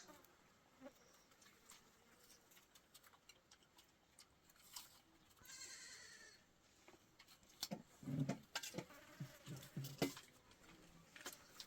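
Goats bleating: a short high call about five and a half seconds in, then a lower, louder call about eight seconds in, among scattered clicks and knocks.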